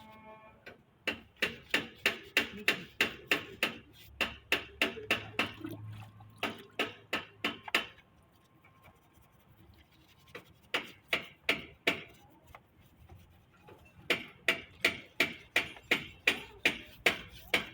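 Stiff brush scrubbing a car engine that is wet with a fuel, water and chemical cleaning mix, in quick rhythmic strokes about four a second. The strokes come in three runs with short pauses between them.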